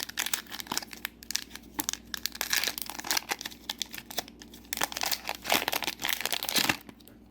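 Trading-card booster pack's foil wrapper being torn open and crinkled by hand: a dense run of sharp, irregular crackles that dies away near the end.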